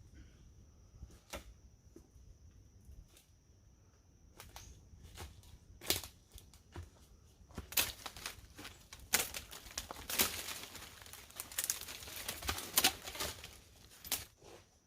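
Scattered sharp clicks and snaps, thickening about halfway through into several seconds of dense crackling and rustling, with a faint steady high-pitched insect-like whine in the quieter stretches.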